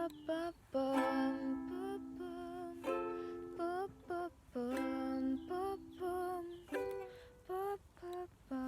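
Strummed chords on a small acoustic string instrument, each strum struck about every one to two seconds with the notes ringing between.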